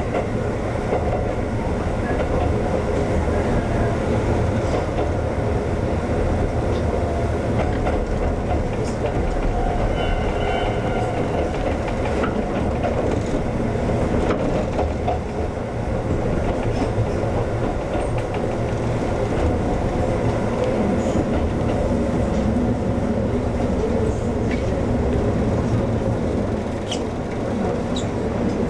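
Former Tokyu 7000 series electric train running along the line, a steady rumble and rail noise with scattered clicks of the wheels over rail joints.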